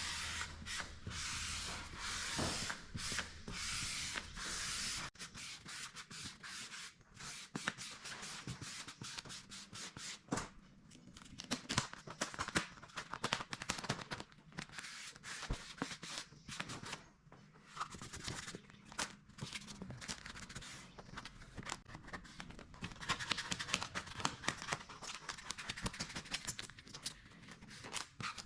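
Scratchy rubbing and crinkling of a vinyl cab decal being applied by hand, in irregular strokes with small clicks. A low steady hum runs under it for the first few seconds.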